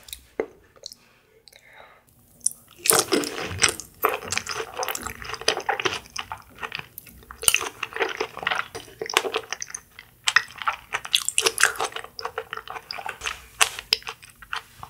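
Chewing a mouthful of strawberry mochi, a quick, irregular run of mouth sounds that starts about two and a half seconds in after a quiet start.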